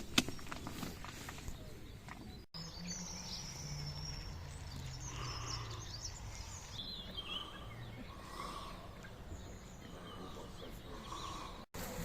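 Birds chirping and calling outdoors, with a few soft ticks in the first couple of seconds.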